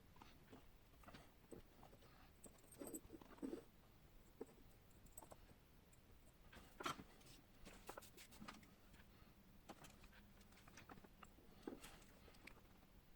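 Faint, scattered clicks and taps from small tools and wires being handled while a wire is soldered onto a flashlight's circuit board, a few slightly louder taps among them.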